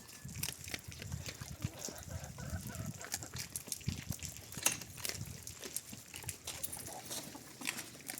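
Chickens clucking softly among scattered short clicks and scuffs.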